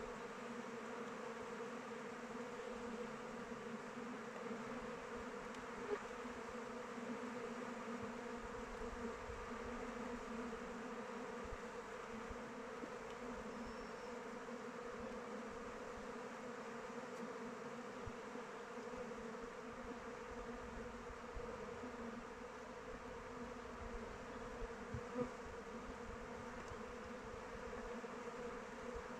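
Many honeybees flying around their hive: a steady, layered buzzing hum with a few faint ticks.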